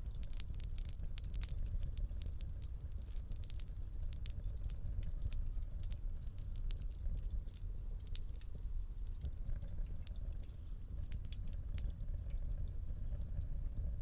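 Wood fire burning in a fireplace: a steady low rumble of flames with a dense run of sharp crackles and pops, thinning out somewhat in the second half.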